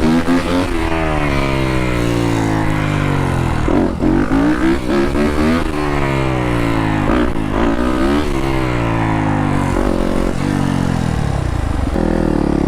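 Dirt bike engine being ridden, its pitch climbing and falling several times as the rider works the throttle. Near the end it settles into a steadier, higher drone.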